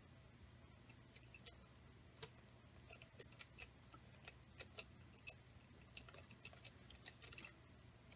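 Faint, irregular light metallic clicks and clinks of small hardware and hand tools being handled while fitting parts on a model air engine, with a quick cluster near the end.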